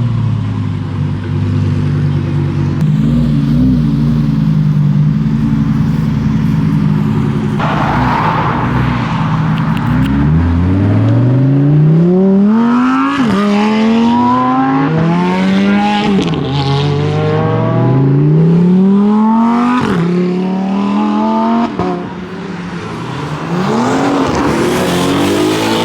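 Lamborghini Huracán STO's V10 idling with a few short blips of the throttle, then accelerating away hard from about ten seconds in. The revs climb and drop sharply at each of four or five quick upshifts, with another rev near the end.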